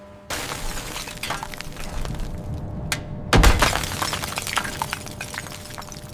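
Glacier ice cracking and breaking up as a bomber is pulled out of it under cable tension: a sudden start of dense crackling and snapping, with one heavy crash about three and a half seconds in.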